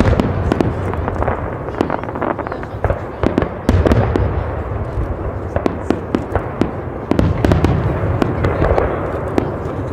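Fireworks display: a dense run of sharp bangs and crackles over a continuous low rumble, which grows louder a little under four seconds in.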